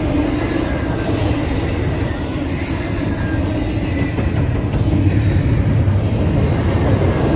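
A train passing close by: a steady rumble of wheels on the rails that grows slightly louder about five seconds in.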